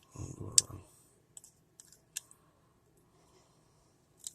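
Plastic Beyblade launcher parts being handled, with a short rustle near the start, then a handful of separate light clicks and taps.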